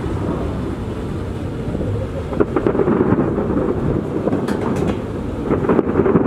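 Fireworks display going off in rapid succession: a continuous rumble of overlapping bursts, with volleys of sharp crackles about two and a half seconds in, again near five seconds, and just before the end.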